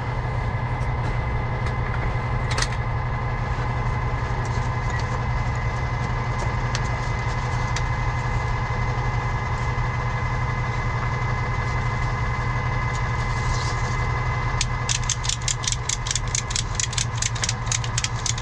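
Truck engine idling steadily, and from near the end a quick run of sharp clicks from a ratchet strap being tightened around the drive shaft.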